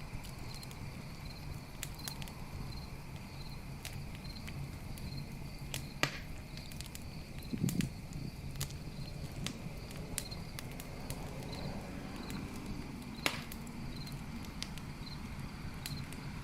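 Campfire crackling, scattered pops with two loud snaps and a dull thump about halfway through, over a steady low rush of flames. A cricket chirps steadily behind it, about one and a half chirps a second.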